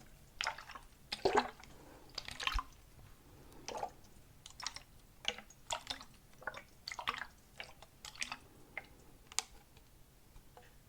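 Close-miked ASMR mouth sounds: irregular wet clicks and pops, a few a second.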